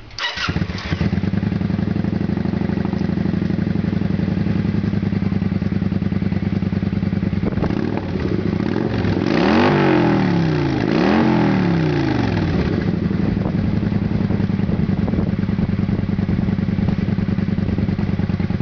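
A 2008 Kawasaki Vulcan 900 Custom's V-twin engine, its exhaust debaffled, starting up and settling into a steady idle. It is revved twice in quick succession about halfway through, then returns to idle.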